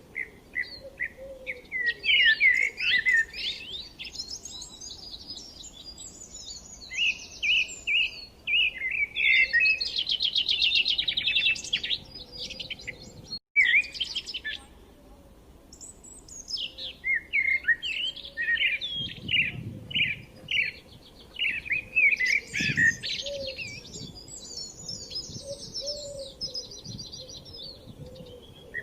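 Several small birds chirping and singing together, short chirps mixed with fast buzzy trills that overlap one another. The sound drops out for an instant about halfway through.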